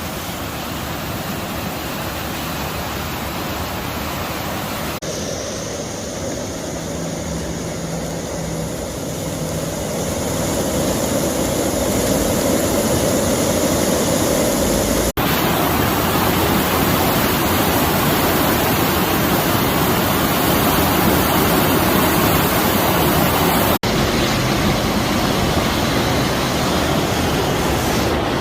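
Floodwater rushing down a swollen creek: a loud, steady rush of water. It grows louder from about ten seconds in, with a few abrupt shifts where the recording is cut.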